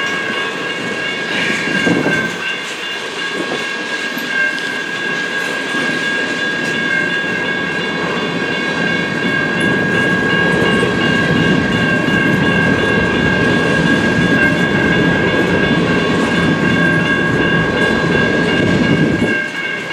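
CN freight train rolling past, with wheels clicking over rail joints and a low rumble that grows heavier about halfway through, then drops off sharply near the end. A steady high ringing tone runs throughout.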